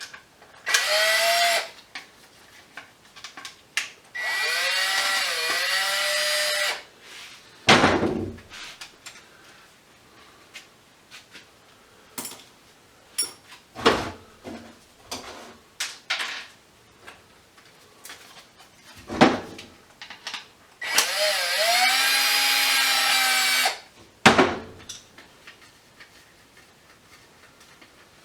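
Handheld electric drill running in three bursts, each winding up to a steady whine that sags briefly under load as a metal light fixture is taken apart. Sharp knocks and clinks of metal parts come in between, two of them louder, about a third and two-thirds of the way in.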